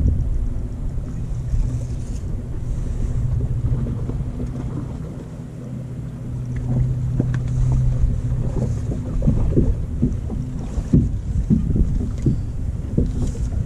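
Wind buffeting the microphone on a fishing boat, with a steady low boat-motor hum underneath that rises slightly in the middle and fades out about eleven seconds in; after that, irregular gusty thumps of wind carry on.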